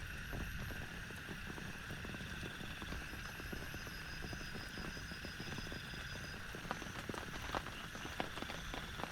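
Heavy rain falling, with drops striking a nearby surface in quick, irregular taps and a few sharper taps near the end. A steady high ringing tone sits behind it.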